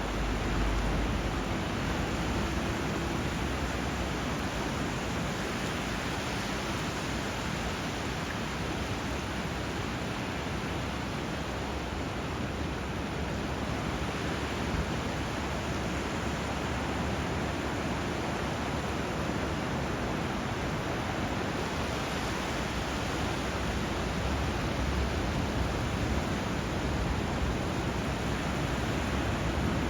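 Steady rushing water, an even hiss of flowing river water and surf with no distinct splashes or bird calls.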